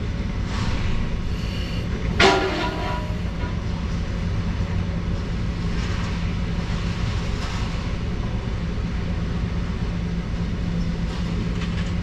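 Claw crane's diesel engine running steadily while scrap metal clanks and scrapes as the claw unloads a truck. One loud metallic crash about two seconds in, then lighter clanks every second or few.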